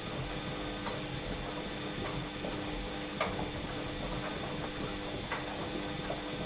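Washing machine running mid-cycle: a steady motor hum and rumble with light, irregular clicks and knocks.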